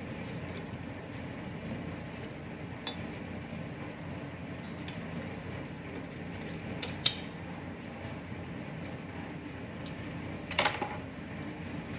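A few metallic clinks of hand tools and metal parts, with a sharp click about seven seconds in and a short clattering clink near the end, over a steady low background hum.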